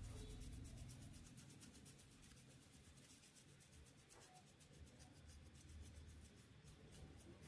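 Near silence: room tone with faint, rapid, evenly repeated scratching.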